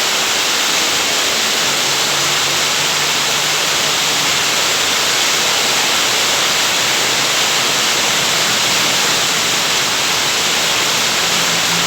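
Heavy rain falling as a loud, steady hiss, with a faint low hum underneath from about a second and a half in.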